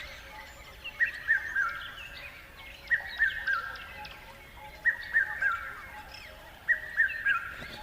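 Birdsong: one bird repeats a short phrase of three falling whistled notes four times, about every two seconds, while other birds chirp faintly higher up.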